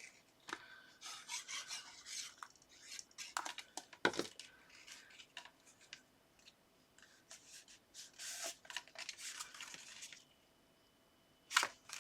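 Card and paper being handled and pressed down by hand: intermittent soft rustling and rubbing, with a couple of light knocks on the desk, one about four seconds in and one near the end.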